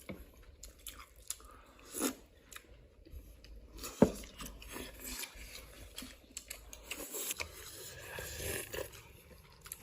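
A person chewing and biting food up close, with small clicks and crunches, and one sharp knock about four seconds in.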